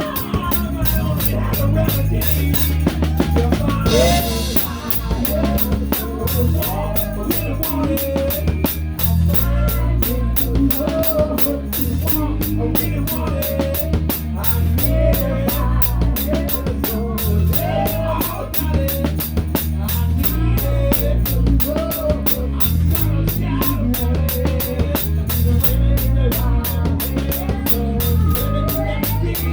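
Live rock band playing an instrumental passage: a drum kit with a towel-damped snare keeps a steady driving beat under bass guitar and a bending lead melody. A cymbal crash comes about four seconds in.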